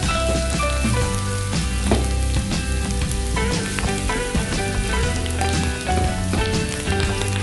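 Pork belly, onions and garlic sizzling as they fry in a nonstick pan, stirred with a spatula, under background music with a melody and bass notes that change about once a second.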